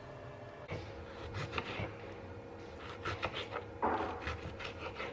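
A kitchen knife dicing tomatoes on a cutting board: irregular runs of quick sharp taps, with a brief scraping rustle about four seconds in.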